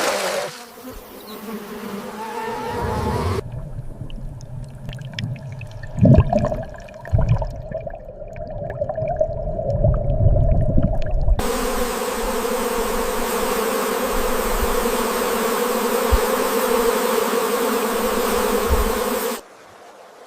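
A steady, loud buzzing drone over a hiss that starts suddenly about eleven seconds in and cuts off near the end. Before it there is a low rumble with two heavy thumps about six and seven seconds in.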